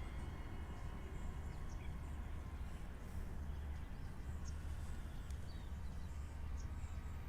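Wind rumbling on the microphone, with a few faint, short, high bird chirps.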